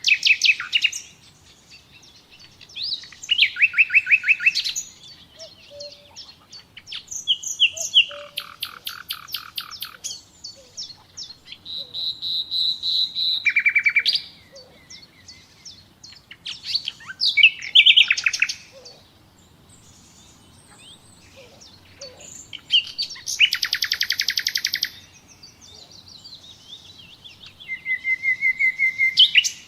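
Nightingale singing: loud song phrases of a second or two, every few seconds, each made of rapid trills of repeated notes and clear whistles, with short pauses between them.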